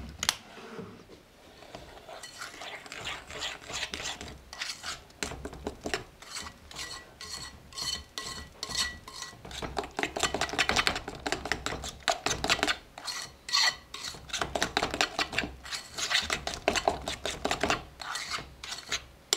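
Cookie batter of creamed margarine, brown sugar and eggs being stirred by hand in a mixing bowl: rapid, repeated scraping strokes of the utensil against the bowl, starting about two seconds in.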